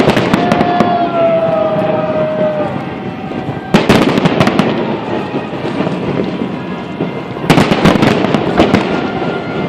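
Fireworks display: clusters of sharp bangs and crackling bursts, the biggest about four seconds in and again near the end, with rumbling echoes in between. A held tone slowly falls in pitch and fades out under three seconds in.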